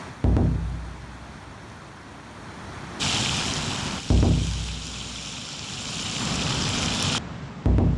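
Three deep booming hits about four seconds apart, each dropping in pitch, with a loud rushing hiss between about three and seven seconds in.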